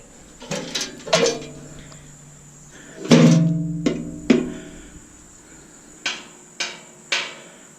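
Stainless steel parts of a Bunn-O-Matic coffee maker clanking against metal, about nine sharp knocks that each ring with a clear tone. The loudest comes about three seconds in and rings on for over a second.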